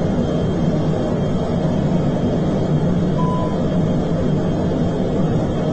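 Steady drone of a military aircraft in flight heard from inside the cockpit: engine and airflow noise. A short faint beep sounds about three seconds in.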